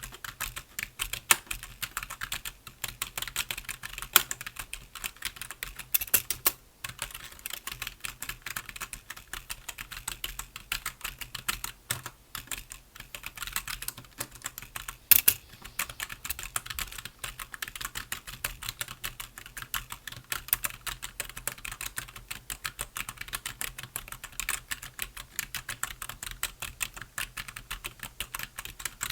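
Computer keyboard being typed on in a fast, continuous stream of key clicks, with a few louder key strikes and a brief pause partway through.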